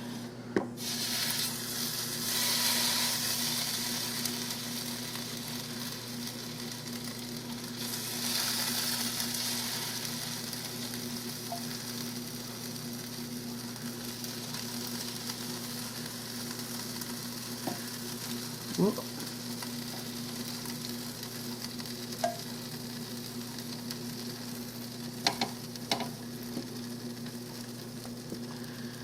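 Marinated chicken drumsticks and wings sizzling as they are laid into a preheated air fryer basket, over a steady low hum. The hiss swells twice early on, and a few light clicks and knocks come near the end.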